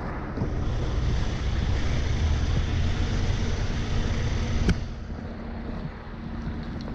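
Heavy diesel truck engine running, with a steady low hum. The rumble grows louder about half a second in, then falls away after a sharp click just under five seconds in.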